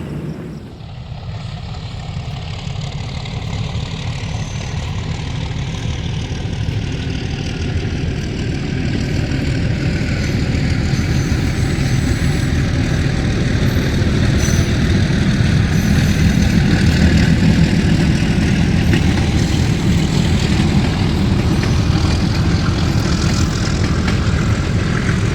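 Metre-gauge diesel locomotive engine running, growing steadily louder for about fifteen seconds and then holding loud.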